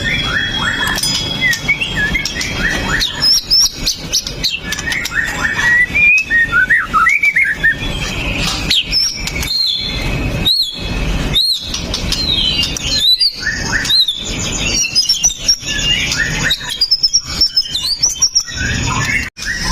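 White-rumped shama (murai batu) singing a fast, varied song of chirps and sharp whistled glides, with scattered clicks alongside.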